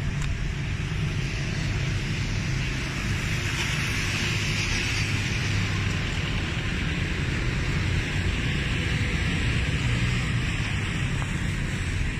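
Honda CB500F's parallel-twin engine running at a steady speed, with a hiss of wind or road noise that swells a few seconds in.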